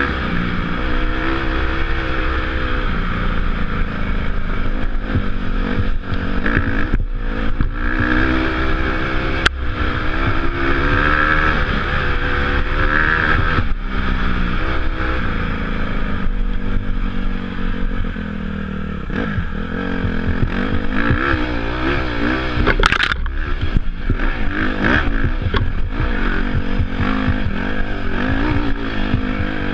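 Dirt bike engine revving up and down continuously as it is ridden off-road, the pitch rising and falling with the throttle. Two sharp knocks, about ten seconds in and again near two-thirds of the way through.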